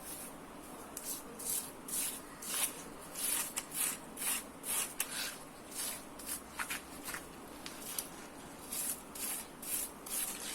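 Short, irregular scrubbing rasps, several a second, like a stiff brush worked back and forth over the chainsaw's housing to clean off sawdust and grime.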